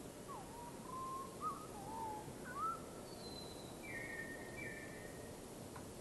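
A bird whistling a run of short gliding notes, two of them louder, followed by a few higher, thinner notes about halfway through.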